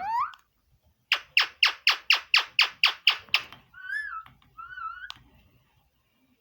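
Pet green parrot calling: a rising call at the start, then a quick run of about ten sharp, descending squawks, followed by two warbling whistles.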